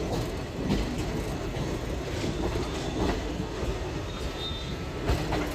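Passenger train running on the rails: a steady rumble with a few knocks from the wheels passing over rail joints.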